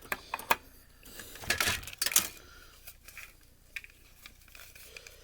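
Plastic and metal parts of a dismantled Blu-ray player being handled: scattered clicks and light clatter, with a louder scraping rattle about a second and a half in.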